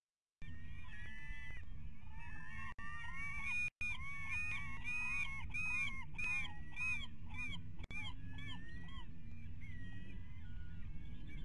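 Birds calling: a long series of repeated rising-and-falling notes that quicken in the middle and thin out near the end, over a steady low rumble.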